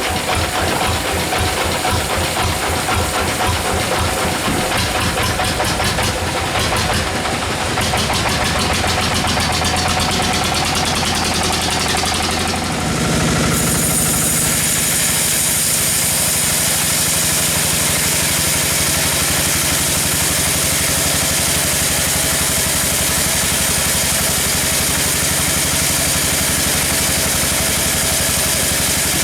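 Engine-driven sawmill machinery running. It has a pulsing engine rhythm at first, then about halfway through it changes to a steadier, fuller running with a high hiss added.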